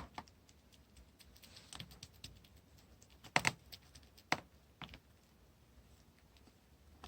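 Clay-mixed slime being pressed and worked by hand, giving scattered sharp clicks and pops with faint crackling in between. The loudest pop comes about three and a half seconds in, followed by two more about a second and a second and a half later.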